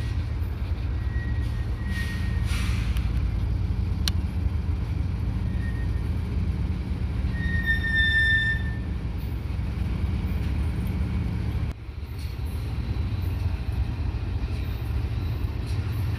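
Steady low rumble of FEC freight train locomotives' diesel engines, with a short high squeal about eight seconds in and a few fainter ones before it.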